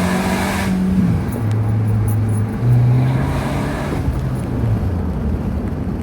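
2012 Acura RDX's turbocharged 2.3-litre four-cylinder, with its rear muffler deleted and a glasspack resonator, pulling hard under acceleration, with a rushing hiss from the blow-off valve venting that cuts off sharply under a second in as the throttle lifts. The engine note drops, then climbs again for about two seconds before settling to a lower steady drone.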